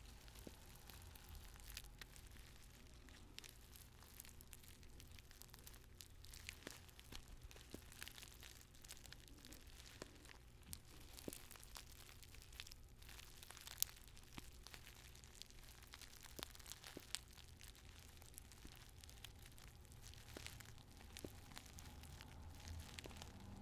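Paper tea bag handled close to the microphone: soft, irregular crinkling and crackling of the paper, with one sharper click about two-thirds of the way through.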